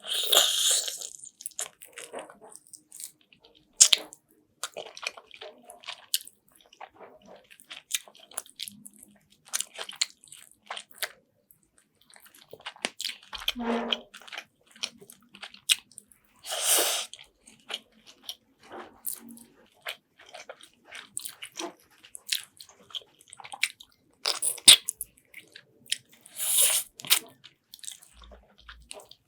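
Close-miked eating sounds of chicken afritada: wet chewing, biting and crunching, with irregular clicks and a few louder bursts of slurping or crunching.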